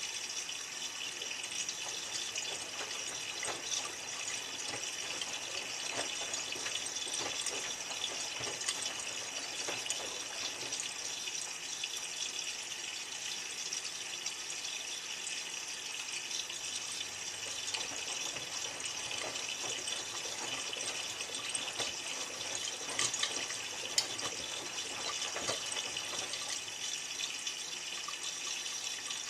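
Miele W3744 washing machine in its final rinse: a steady rush of water in the drum, with irregular sloshing.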